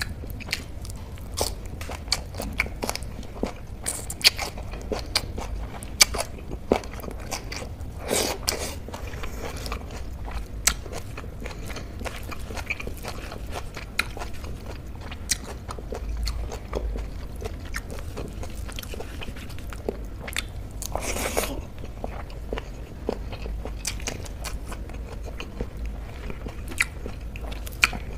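Close-miked chewing and biting of food, with frequent sharp crunches from raw spring onion stalks and softer chewing of rice and soy paneer bhurji in between.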